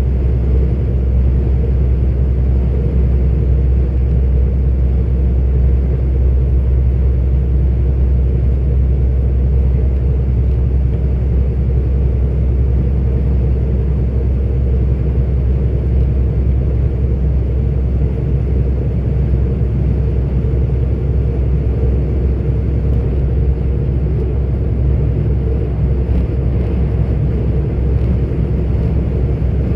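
A 44-ton articulated truck's diesel engine and road noise at a steady cruise: a loud, even, low rumble that holds constant throughout.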